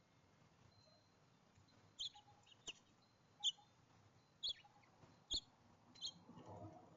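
A small bird at a feeder chirping: six short, sharp chirps spaced under a second apart, followed by a soft rustle near the end.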